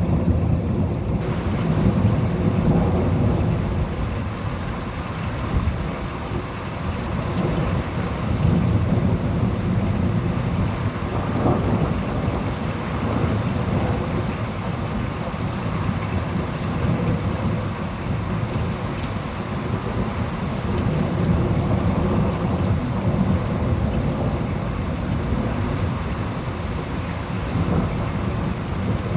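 Thunderstorm: steady rain with thunder rumbling low in several long, slow swells.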